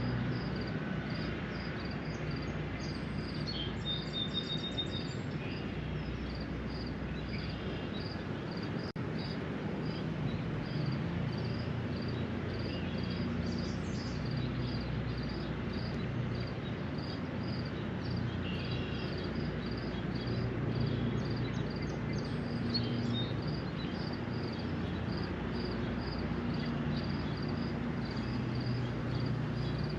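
Spring rain falling by a lake shore as a steady hiss, over a low hum of distant traffic. A short high chirp repeats about twice a second, and scattered bird calls come and go.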